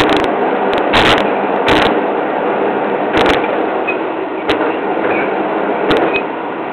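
Train running noise heard from the front of the train, a steady rumble with sharp clicks and knocks at uneven intervals, roughly one every second or two.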